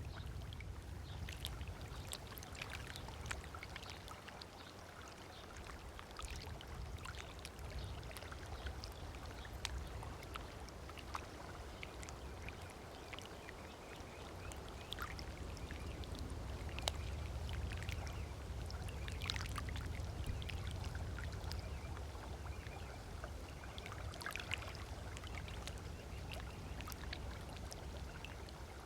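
Small waves lapping on a sandy shore: soft, irregular splashes and trickles at the water's edge over a steady low rumble.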